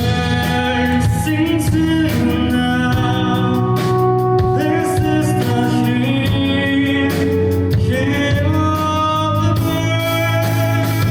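A live rock band playing: a singer's long held notes over guitar and drums.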